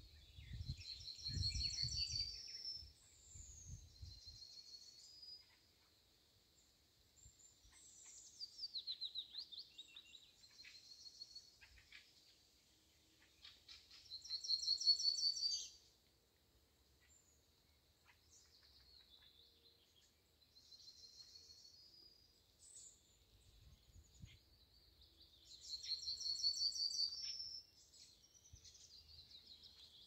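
A songbird singing a high trilling phrase three times, about twelve seconds apart, with shorter bird calls between. A low wind rumble on the microphone comes in the first few seconds and again near the end.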